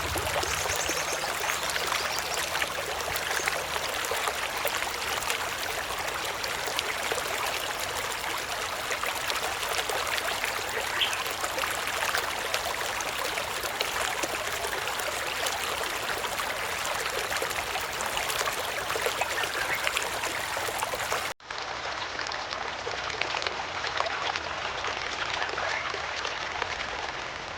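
Steady rushing, crackling noise of water, with an abrupt cut about 21 seconds in to a more muffled stretch of the same kind of sound that fades near the end.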